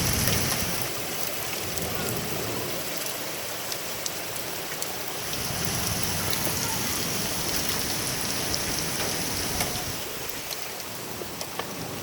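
Heavy rain pouring down and splashing on hard surfaces, with many sharp drop ticks over a steady hiss. A low rumble swells and fades now and then.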